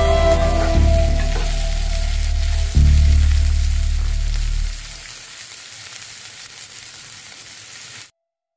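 Mixed bean sprouts sizzling as they stir-fry in hot oil in a pan, turned with a metal slotted spoon. Background music with a bass line plays under the sizzle and fades out about halfway; the sound cuts off suddenly just before the end.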